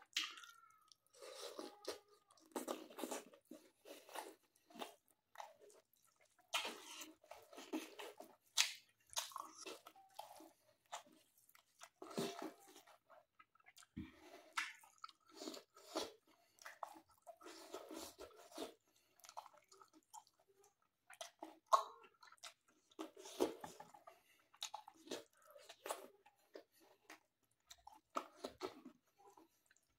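Close-up chewing of mutton, rice and squash leaves eaten by hand: wet mouth sounds and many small sharp clicks coming in irregular bites.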